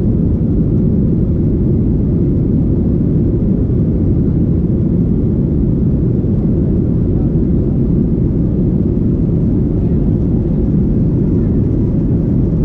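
Steady low rumble of a Boeing 737-800's CFM56 turbofan engines and airflow, heard inside the cabin, holding level without rising or falling.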